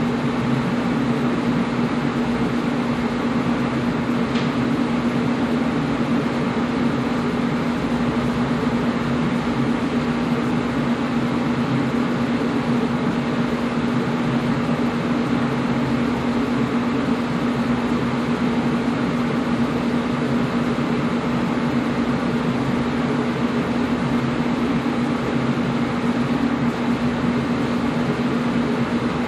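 Air conditioner running steadily: a constant low hum over an even hiss of moving air, with no change in pitch or level.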